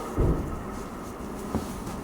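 A heavy, low thump about a quarter second in and a lighter knock near the end, over a steady rumbling noise.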